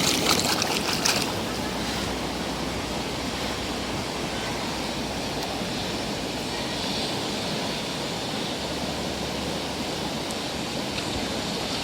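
Steady rush of running water while muddy toy cars are washed, louder and brighter for about the first second.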